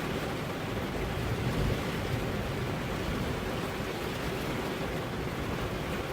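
Steady rain falling on a car's windows, an even hiss with no breaks.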